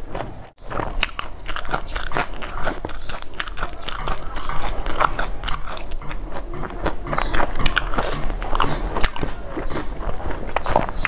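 Close-miked crunching and chewing of raw greens and spring onion eaten with rice, with many irregular crisp bites and wet mouth clicks. The sound cuts out for a moment about half a second in.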